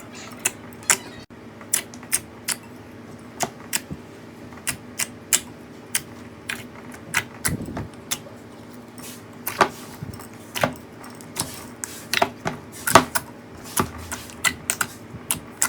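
Slime being squeezed and pressed by hand, giving sharp, irregular clicking pops about two a second over a faint steady hum.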